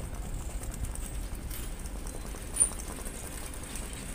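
Passenger coaches of an arriving train rolling slowly past: a steady low rumble with light, irregular clicking from the wheels on the rails, and one brief high squeak a little over halfway through.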